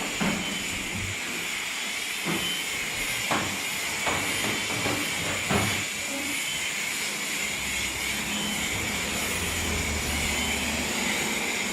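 Self-serve car wash spray wand putting out pink pre-soak, a steady hiss, with a few soft knocks along the way.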